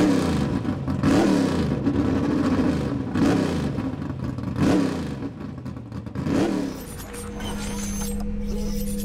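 Car engine revving in about four blips, each rising and falling in pitch, then giving way about seven seconds in to a steady low hum.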